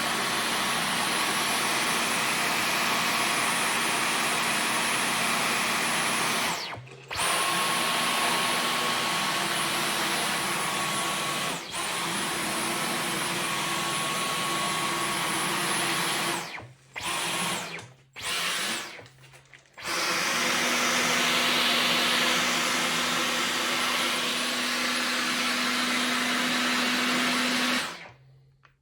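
Dyson V15 Detect cordless stick vacuum running with a steady whine. It cuts out briefly about seven seconds in and several times between about seventeen and twenty seconds, then stops near the end.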